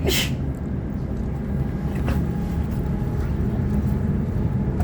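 Sydney Trains Waratah electric multiple unit running at speed, heard on board: a steady low rumble of wheels on the track and traction equipment, with a brief hiss right at the start and a fainter one about two seconds in.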